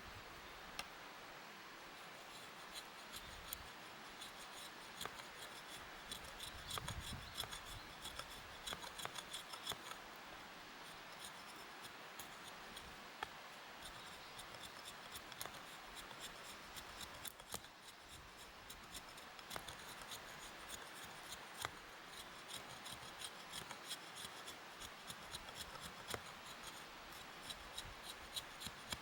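Faint, irregular small scraping strokes and sharp clicks, coming in busy runs.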